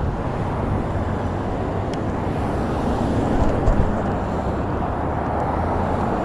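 Steady road noise while riding a slow electric kick scooter in street traffic: a continuous rumble of wheels, wind and traffic, with a brief louder swell about three and a half seconds in.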